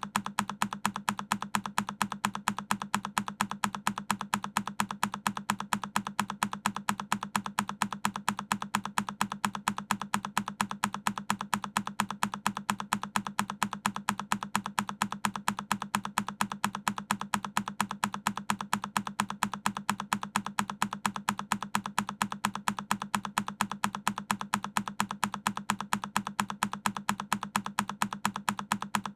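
A single key on a Keychron K10 mechanical keyboard pressed over and over, each press a sharp click, repeating evenly several times a second.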